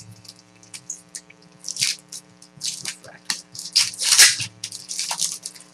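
Trading cards and foil pack wrappers being handled, rustling and crinkling in quick, irregular bursts, over a steady electrical hum.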